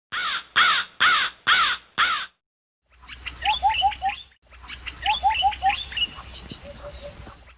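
A crow cawing five times, about half a second apart, then small birds chirping and twittering over a steady high hiss.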